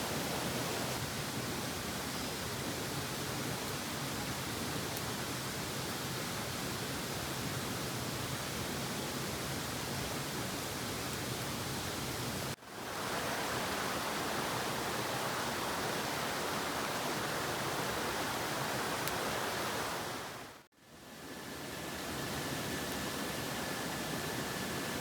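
Steady rushing noise with no distinct events, broken twice by abrupt drop-outs, about halfway through and again near the end; after the second one a faint steady high tone runs under it.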